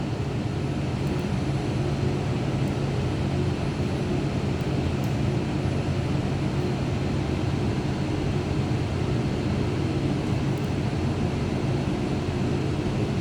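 Steady machinery drone: a constant low hum with a rushing noise over it, unchanging throughout.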